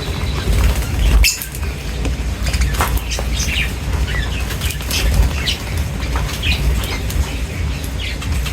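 Small birds feeding, with many short, high chirps and the flutter of wings, over a steady low rumble. A sharp click comes about a second in.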